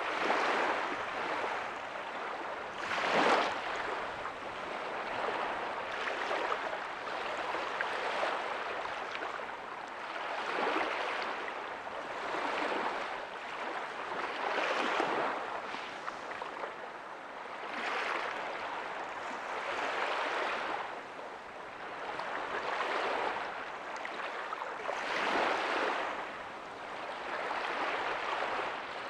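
Ocean waves breaking softly on a beach: surf washing in, swelling and fading every two to three seconds, with the biggest wash about three seconds in.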